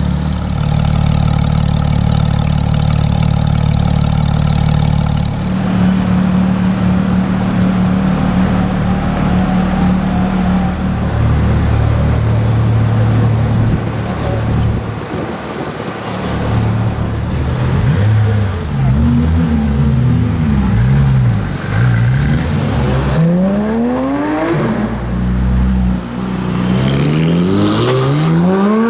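Porsche 991 GT3 flat-six with an IPE (Innotech Performance Exhaust) system running steadily at low revs, then blipped up and down in a few short revs. Near the end it accelerates hard twice, the pitch climbing steeply each time.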